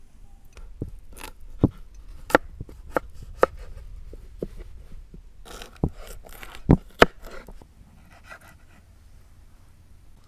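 Irregular sharp knocks and clinks of cookware and utensils being handled, with a little scraping; the loudest knocks come about a second and a half in and around seven seconds in.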